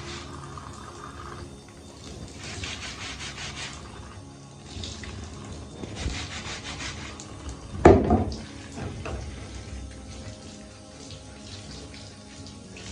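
Water running from a kitchen tap into a sink, starting and stopping in stretches, with one sharp knock about eight seconds in. Soft background music plays underneath.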